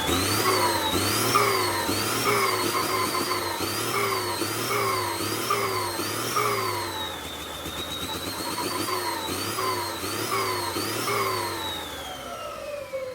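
An engine revved up and down over and over, a little faster than once a second, with a high whine rising and falling with each rev. Over the last few seconds the revs fall away in one long steady drop.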